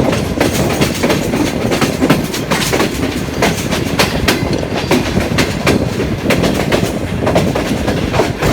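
A passenger train's wheels rumbling and clattering over rail joints and yard pointwork, with a steady low rumble broken by frequent irregular sharp clicks and knocks.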